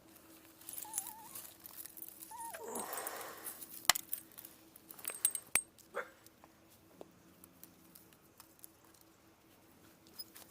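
A frightened dog whimpering: two short, high, wavering whines, the second sliding down in pitch, followed by rustling and a few sharp clicks.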